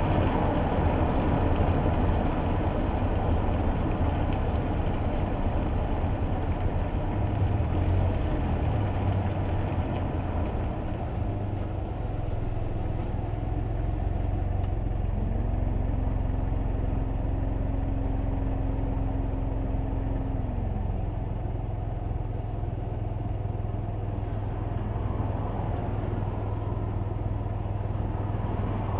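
Road and engine noise heard inside a kei car's cabin on a wet road: a steady low rumble with tyre hiss, louder for the first several seconds and then settling to a quieter, steadier low hum. About halfway through, a faint steady tone comes in and fades out some six seconds later.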